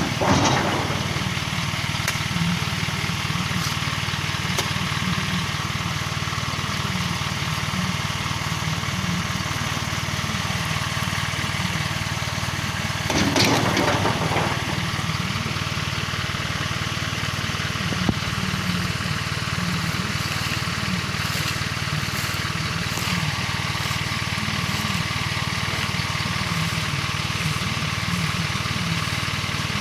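Truck engine running steadily, with a brief louder noise about 13 seconds in.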